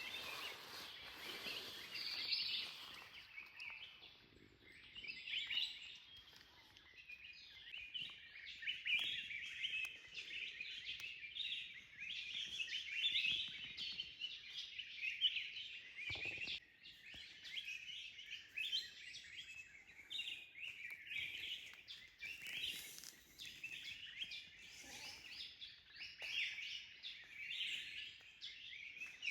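Wild forest birds chirping and calling, many short calls overlapping in a continuous chorus.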